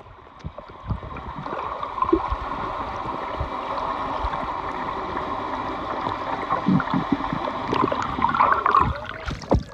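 Steady rushing, gurgling water around a small boat, with a few short low knocks.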